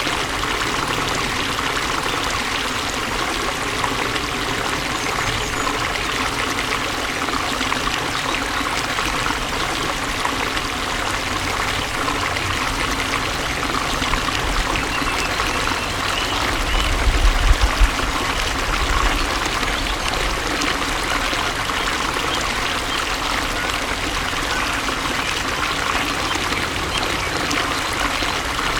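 Water flowing and trickling steadily, like a small stream. A brief low rumble swells and fades a little past halfway through.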